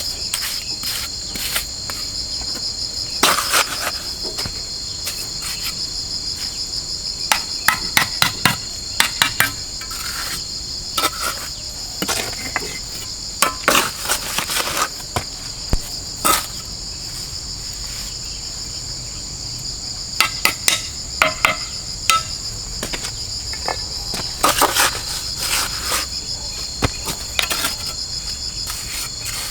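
Steady high-pitched chorus of insects, broken by several runs of sharp knocks, a few strikes each, coming several times.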